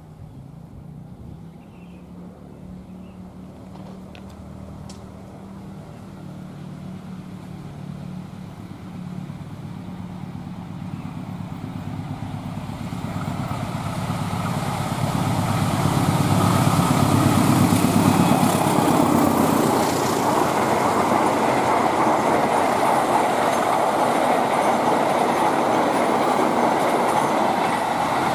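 A diesel-hauled train approaching and passing: a low engine hum grows steadily louder over about fifteen seconds, peaks as the locomotive goes by, then gives way to the steady loud rush and rattle of the carriages' wheels on the rails.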